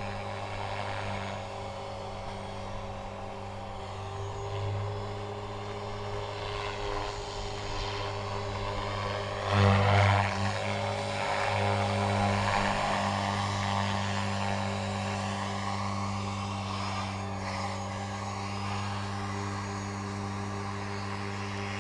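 Align T-Rex 500 radio-controlled helicopter hovering, its rotor and motor making a steady drone. The drone swells briefly about ten seconds in.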